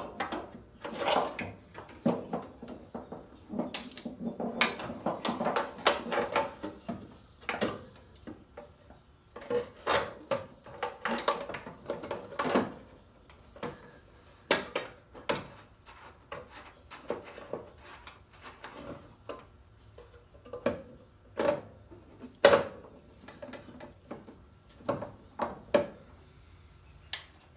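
Irregular clinks and knocks of hand tools and metal parts being handled while a clutch master cylinder and its lines are fitted and bolted into a car's engine bay.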